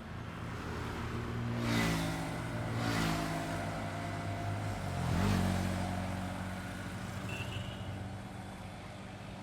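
Highway traffic with engines running steadily, and vehicles passing one after another: louder swells about 2 and 3 seconds in, and another about 5 seconds in with a dip in pitch as the vehicle goes by.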